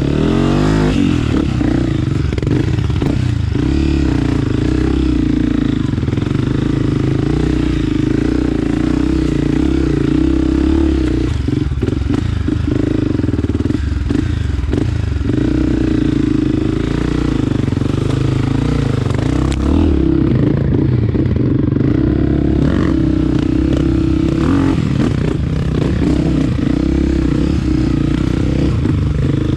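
Honda CRF250F trail bike's single-cylinder four-stroke engine running under throttle on a trail ride, heard from the rider's helmet. The engine note dips briefly a few times, around 12, 14 and 20 seconds in, and there is some clatter.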